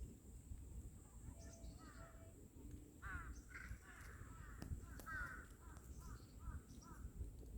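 A bird calling outdoors in a series of short calls. They come sparsely at first, then about three a second from around three seconds in.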